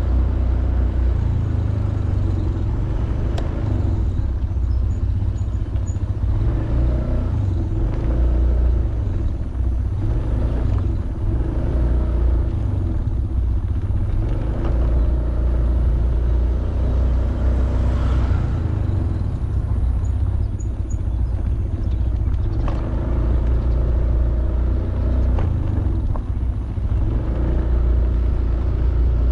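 Honda Beat 110cc scooter's engine running steadily while riding, with a heavy low wind rumble on the microphone.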